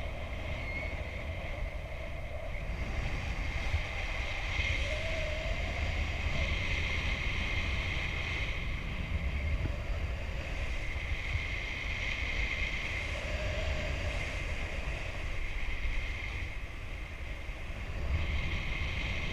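Wind rushing and buffeting the microphone during a paraglider flight, a steady low rumble with a faint high whine that swells and fades.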